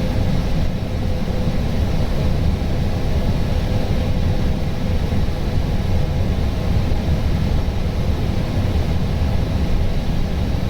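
Steady rumble of airflow and engine noise inside an Airbus A320's cockpit on approach. A faint steady hum fades out in the first half.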